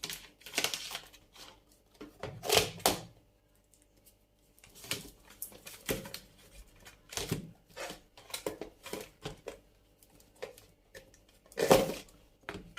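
Irregular knocks, clicks and rustles of plastic containers and packaging being handled while a refrigerator is organised, loudest about two and a half seconds in and again near the end.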